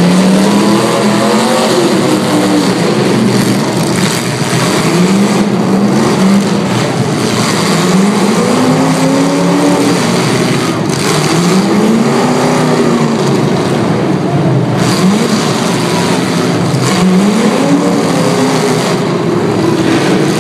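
Demolition derby cars' engines revving hard, pitch climbing and falling again every few seconds, over a constant loud din of engines and tyres.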